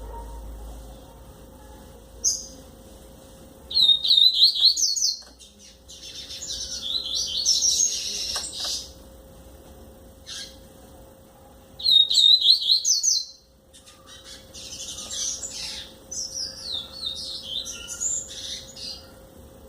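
Coleiro (double-collared seedeater) singing: several phrases of quick, rising and falling whistled notes, with short pauses between them.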